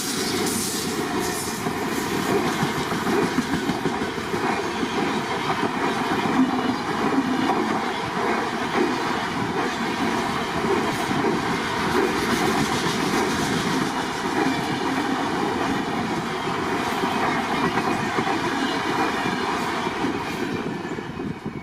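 A train running past, its wheels clattering steadily over the rails; the noise begins to fade near the end.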